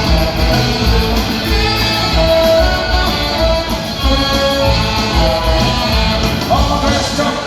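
Live rock band playing an instrumental passage: guitars over a steady drum and bass beat.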